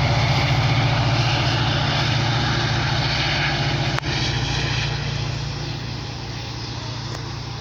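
Diesel train engine drone with rolling noise, fading steadily as the train moves away. A short sharp click about four seconds in.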